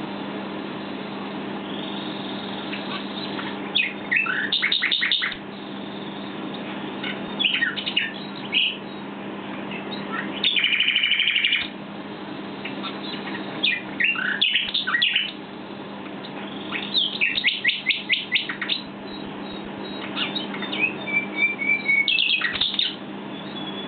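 Common (southern) nightingale singing in separate phrases a few seconds apart: fast runs of repeated notes, a buzzy rattle about halfway through, and short whistled notes. A steady low hum runs underneath.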